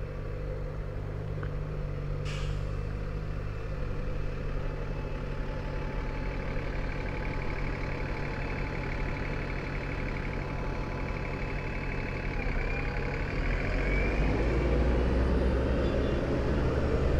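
Motorcycle and nearby traffic engines running, a steady low engine hum with a heavier vehicle close by. A short hiss comes about two seconds in, and the low rumble grows louder over the last few seconds.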